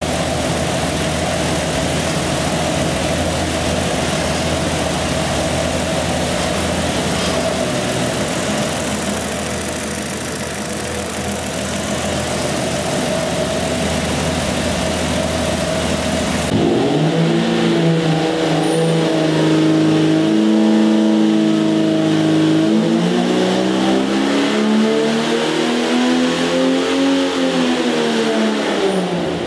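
Jeep 4.6-litre stroker straight-six running on an engine dyno. It runs steadily for about sixteen seconds, then the sound changes suddenly to a clearer engine note that climbs in pitch as the engine is pulled up through the revs and drops back near the end.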